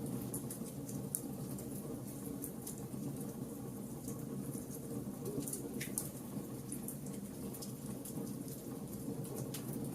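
Wood fire burning, with a steady low rumble of flames under irregular sharp crackles and pops from the burning wood; a louder pop comes about a second in and another about six seconds in.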